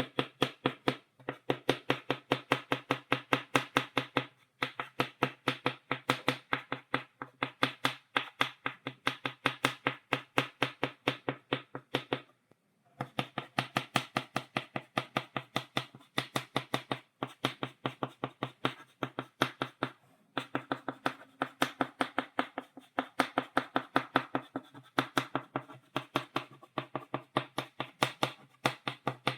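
Chalk tapping dots onto a blackboard in stippling: rapid sharp taps, several a second, in runs broken by short pauses.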